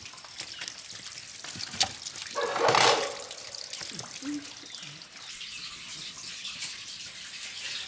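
Water trickling and splashing with scattered light clicks, and a louder rush of water about two and a half seconds in.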